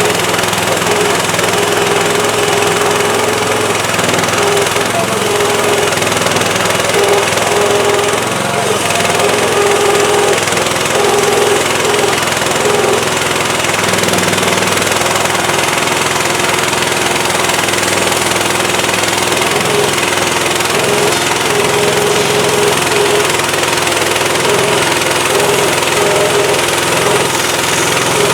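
HM130MAX portable bandsaw sawmill's gas engine running steadily, with a pitch that wavers slightly throughout.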